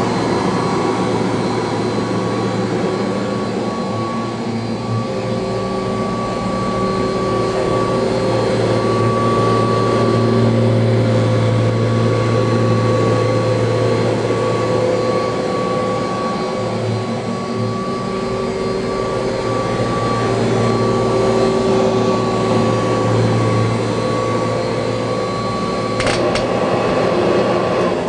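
A 1985 Kirby Heritage II upright vacuum cleaner running at steady speed with a constant whir and several steady tones. A click comes a couple of seconds before the end, and right at the end the motor is switched off and its pitch begins to fall as it winds down.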